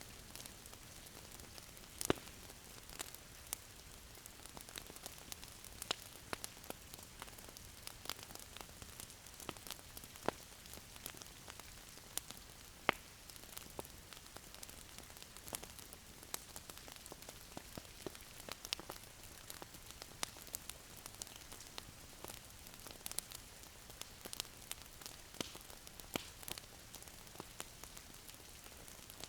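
Wood fire crackling in a fireplace: a soft steady hiss with frequent irregular pops and snaps, a few sharper ones standing out.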